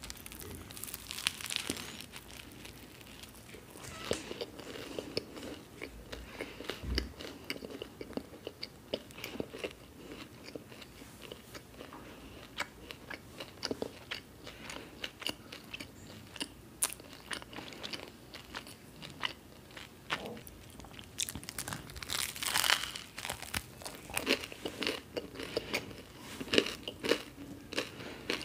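Close-miked biting and chewing of a grilled toast sandwich filled with crisp fried onion bhajiyas: a bite near the start, then a steady run of crunching and chewing that gets louder and denser in the last several seconds.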